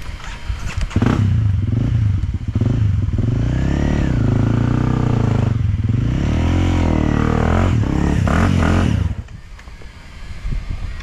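Enduro dirt bike engine revving hard, its pitch rising and falling repeatedly for about eight seconds, then easing off sharply near the end.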